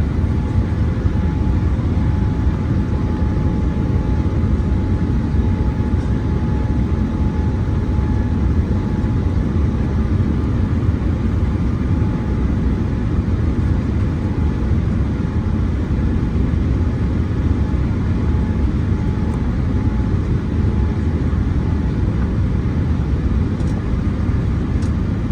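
Steady cabin noise of a Boeing 787-8 airliner in flight: an even, low rumble of airflow and engines with a faint steady whine above it.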